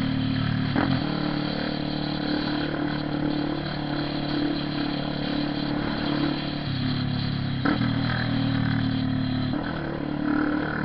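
Honda CB 300R single-cylinder motorcycle engine running steadily. Its note steps abruptly up or down about a second in, around seven to eight seconds in, and again near the end.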